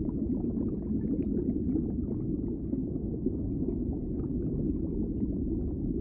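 Underwater ambience: a steady, muffled low rumble of water with faint scattered crackling.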